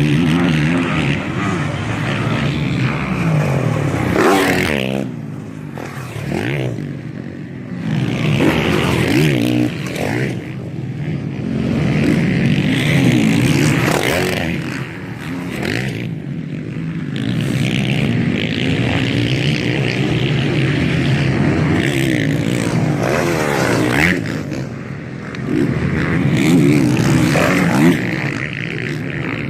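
Several MX1 motocross bikes racing, their engines revving up and dropping back again and again as they pass, with brief lulls between passes.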